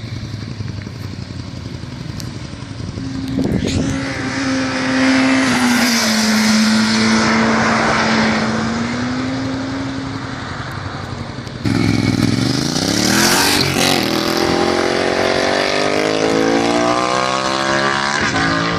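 Motorcycle engines at speed on a road. One holds a high note and then drops in pitch as it passes. About twelve seconds in the sound turns abruptly louder, with an engine accelerating hard, its pitch climbing steadily.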